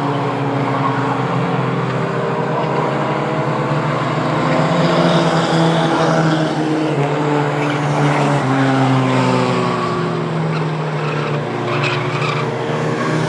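A field of Mighty Trucks racing on a short oval: several engines running hard at once, their pitches rising and falling as the trucks go by.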